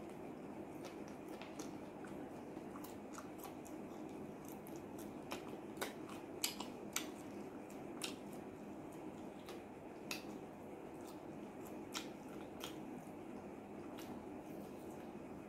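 A person chewing and biting fried chicken close to the microphone: scattered wet mouth clicks and smacks, the loudest between about five and eight seconds in, over a steady hiss.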